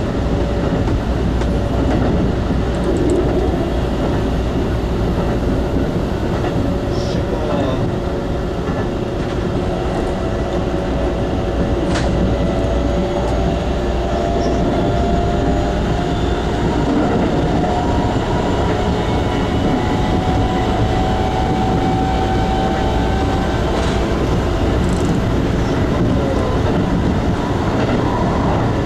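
Keikyu 2100 series electric train running at speed, heard from the driver's cab: a steady rumble of wheels on rail, with a motor whine rising slowly in pitch and a few sharp clicks.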